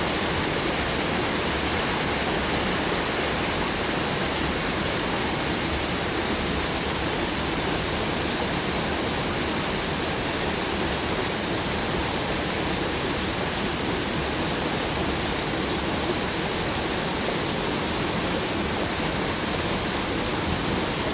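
Heavy downpour: rain falling hard and steadily on foliage and ground, a dense, unbroken hiss.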